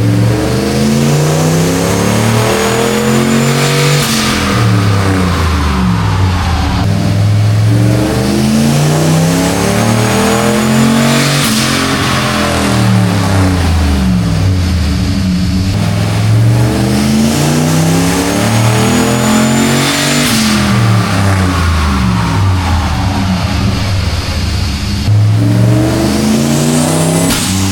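1976 Ford F-250's engine revving up and winding back down on a chassis dyno, three times over, with a fourth climb starting near the end. A faint high whine rises with each climb.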